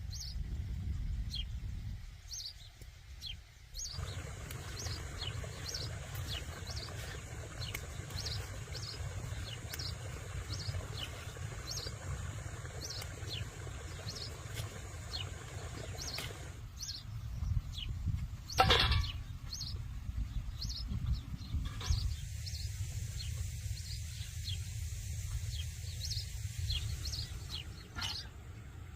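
Small birds chirping over and over, short high chirps over a steady low rumble. About two-thirds of the way through there is one louder, sharp sound.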